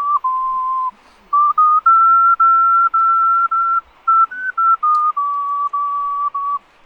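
Ocarina playing a slow melody, one pure, breathy tone stepping between notes, in two phrases with short breaths between.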